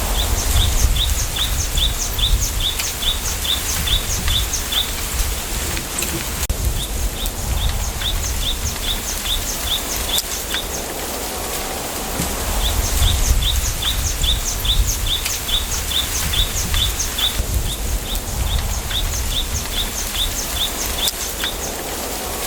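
A small bird singing phrases of short, repeated high chirps, about two or three a second, four phrases with brief gaps between. Underneath is a steady rustle of wind through bamboo leaves and a low rumble of wind on the microphone.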